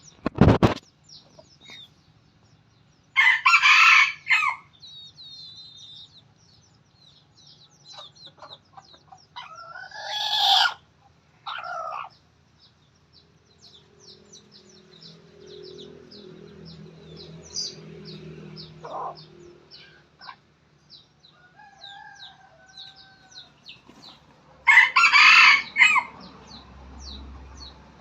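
Red junglefowl rooster crowing twice, about three seconds in and again near the end, with shorter calls around ten seconds in. Rapid high chirps run underneath throughout.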